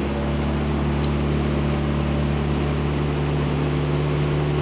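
Turbocharged SR20DET four-cylinder engine idling steadily on a chassis dyno: an even, unchanging drone with a rushing hiss over it.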